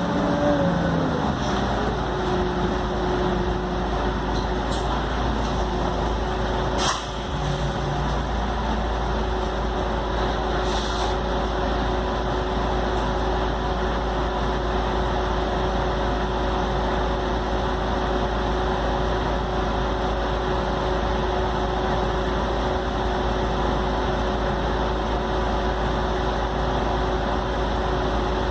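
Scania K310UD double-decker bus running at a steady pace: a steady low engine and drivetrain drone under road noise, with a whine that drops in pitch at the start and then holds level. A single sharp click comes about seven seconds in.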